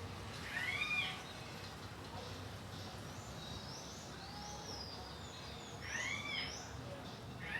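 Birds calling: one bird gives a short call that rises and falls, twice, with a third starting at the very end, while fainter, higher chirps come between. Steady low background noise underneath.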